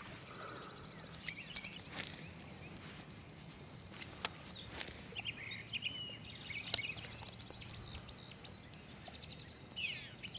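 Quiet lakeside ambience with faint birds chirping and calling, mostly in the middle and again near the end, and a few sharp clicks.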